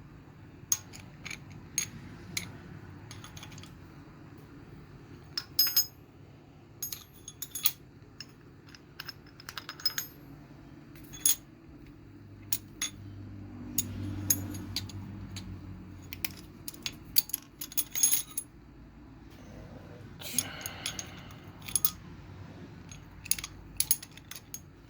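Steel pushrods clinking as they are handled and dropped down into the lifters of a GM 4.3 V6 engine: many light, sharp metallic clicks at irregular intervals over a low steady hum.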